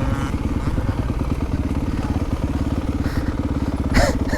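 Enduro motorbike engine running at low revs, a steady rapid beat of firing pulses, with a brief sharper sound about four seconds in.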